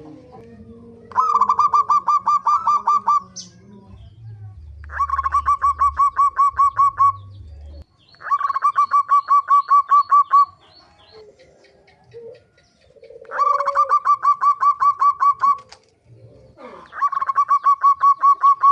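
Zebra dove (perkutut) calling in repeated bouts of quick staccato cooing notes, about five notes a second, each bout lasting about two seconds. The bouts come five times with short pauses between them. A fainter, lower call is heard in the longer pause.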